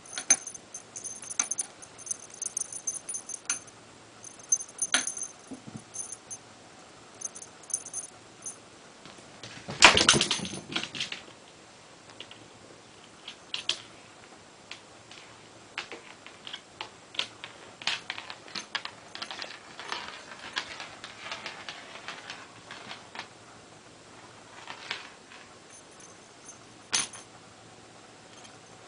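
A small bell jingling in quick little shakes, with scattered light clicks and rustles from a cat playing with a toy, and one louder rustling clatter about ten seconds in.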